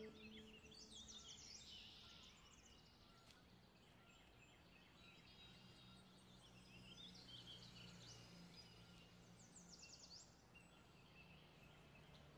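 Near silence: faint bird chirps and trills in the distance over quiet room tone, with a faint low hum in the middle.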